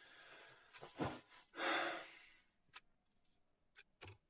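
A person sighing: one breathy exhale about two seconds in, with a shorter sound before it and a few faint clicks after.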